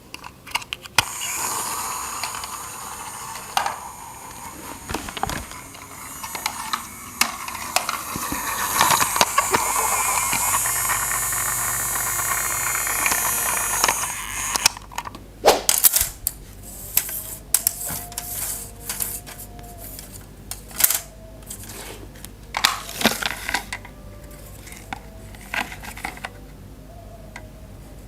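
Plastic toy parts and packaging being handled: a long stretch of rustling and crinkling, then a run of small clicks and clattering knocks from about halfway through.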